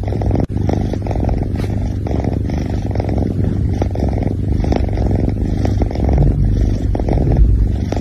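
Domestic cat purring loudly close to the microphone: a steady, fast, low rumbling pulse with a brief break about half a second in.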